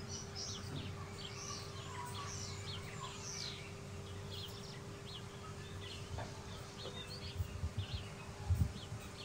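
Small birds chirping in quick short calls, busiest in the first few seconds and thinning out after, over a faint steady hum. A few low thumps come near the end.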